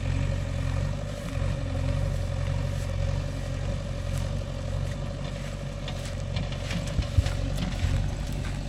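JCB 3DX backhoe loader's diesel engine idling steadily, with a few faint clicks late on.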